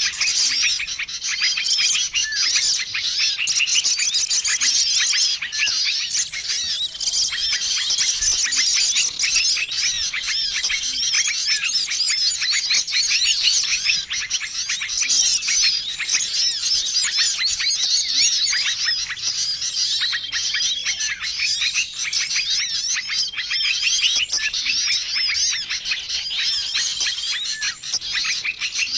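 Dense, continuous chorus of many small birds chirping and twittering over one another, a bird-lure mix meant to draw in wild small birds. A short, level whistled note recurs every two to three seconds through the chatter.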